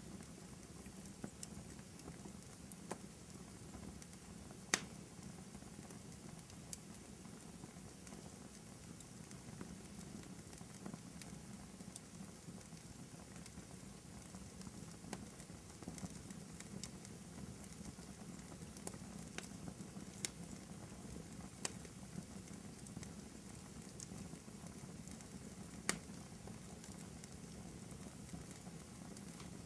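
Wood fire burning, with a steady low hiss and scattered sharp crackles and pops. The loudest pops come about five seconds in and near the end.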